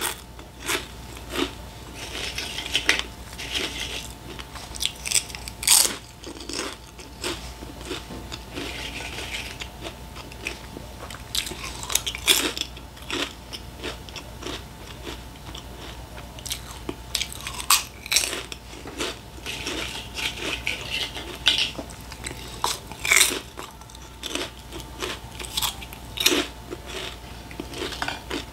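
A person crunching and chewing crisp puffed snacks: sharp crunches every second or so, with chewing in between.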